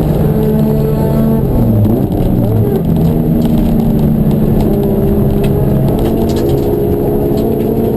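Racing car engines running hard, their pitch shifting with the revs, with a drop in pitch about two seconds in.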